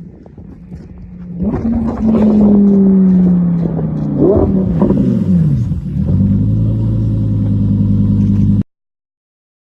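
Lamborghini engine revving: it swells loudly about a second and a half in, slides slowly down in pitch, gives a few quick blips of revs around four to five seconds, then settles into a steady lower drone before cutting off suddenly.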